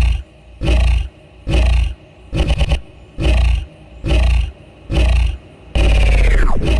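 Edited, bass-heavy bird screams repeated in a steady beat, about one every 0.8 seconds. One scream near the middle is stuttered into rapid repeats. The last, near the end, is longer and falls steeply in pitch.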